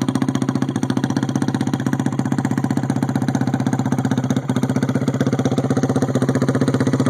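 Yamaha YFZ450 drag quad's single-cylinder four-stroke engine, built to 470cc with a Trinity port job, Stage 3 cams and 13.5:1 compression, idling with an even, rapid pulse. It briefly dips a little over four seconds in.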